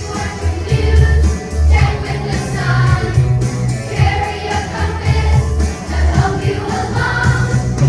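A group of children singing together over a pop backing track with a steady, heavy bass beat.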